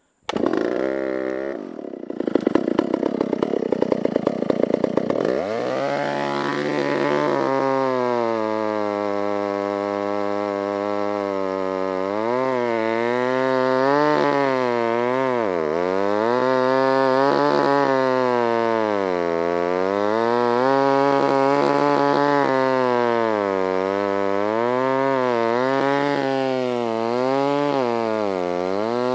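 Stihl 056 two-stroke chainsaw starting up suddenly and running roughly for a few seconds, then revving up to full speed. Its engine note then holds high but dips and recovers again and again as the 36-inch bar cuts under load into a large dead elm.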